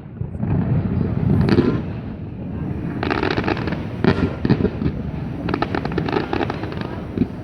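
Aerial fireworks display going off: deep booms from bursting shells, with two spells of rapid crackling pops about three and five and a half seconds in.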